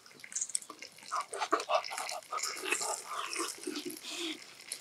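Close-miked eating sounds of a hot, juicy piece of grilled beef offal: irregular wet clicks, smacks and short squeaky mouth sounds, busiest from about a second in.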